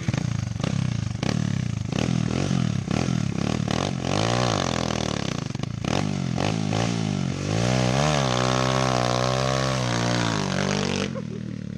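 Pit bike's single-cylinder engine revving, rising and falling in pitch several times, then held at high revs for a few seconds before the revs drop sharply near the end.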